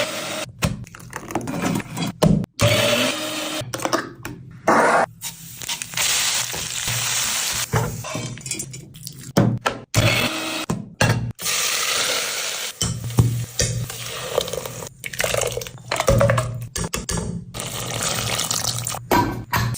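Kitchen work sounds in short cut-together clips: running water and the clatter of dishes and pans, with abrupt cuts between them.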